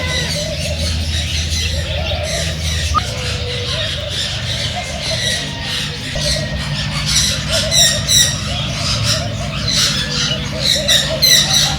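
Birds calling: many short, harsh squawks that come in quick clusters during the second half, over a steady low hum.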